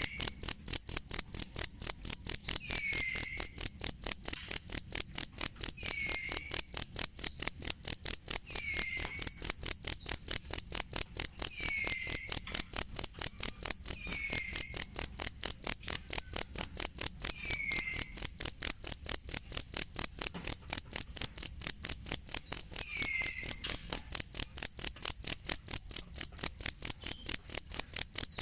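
A cricket chirping continuously in an even, fast rhythm of about four high-pitched chirps a second. A faint falling chirp is heard about every three seconds.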